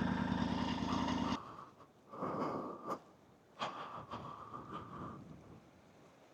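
Motorcycle engine running under wind noise, cut off abruptly about a second and a half in. Faint, short intermittent sounds follow, with a quiet spell near the end.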